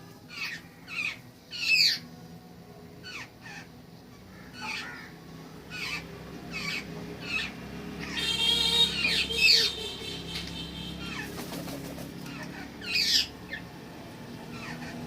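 Wild birds calling at a backyard feeder: repeated short, sharp calls that slide downward, several close together, with a harsher, buzzier call about eight to ten seconds in. A low steady hum runs underneath through the middle.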